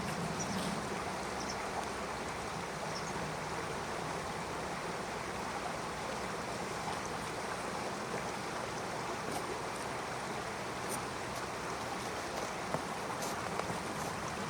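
Stream water flowing and lapping, a steady rushing with a few faint clicks in the second half.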